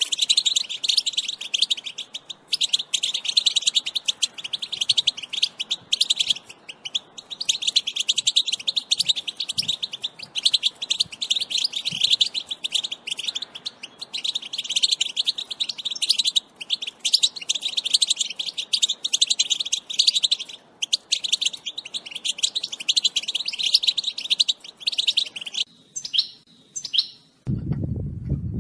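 European goldfinch twittering in a fast, dense run of chirps and trills. Near the end it breaks off, and a low, steady noise begins.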